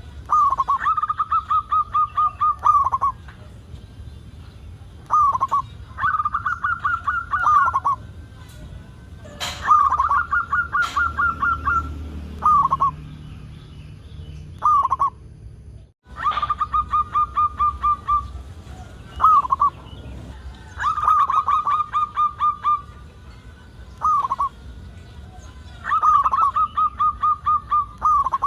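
A zebra dove (perkutut) cooing in repeated phrases. Each phrase is a short single coo followed by a rapid run of staccato coos lasting about two seconds, and the pattern comes round roughly every five seconds. The sound cuts out for a moment about halfway through.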